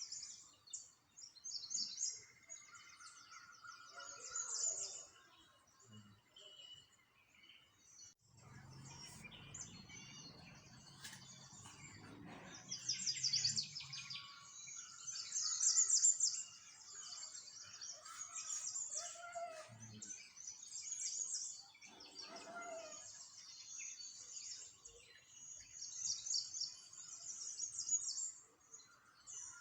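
Small songbirds chirping and trilling in quick high bursts, one after another, with the loudest trills about 13 and 16 seconds in. A faint low hum runs under them for several seconds in the middle.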